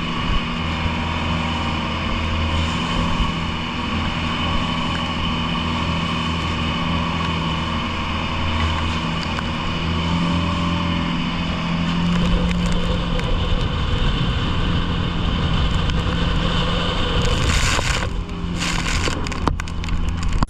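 An engine running steadily, with a low even hum and a wash of wind and rushing noise over it; a few louder gusts of noise come near the end.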